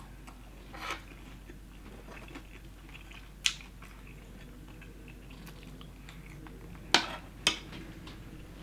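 Close-up eating of Popeyes fried chicken: sharp crunches of the crisp breading, one about a second in, one midway and two close together near the end, with quiet chewing between.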